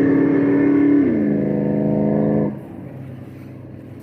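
Yamaha R1 sport bike's inline-four engine running at high revs with a steady note that glides slightly lower about a second in. About two and a half seconds in it drops suddenly to a much quieter, lower note.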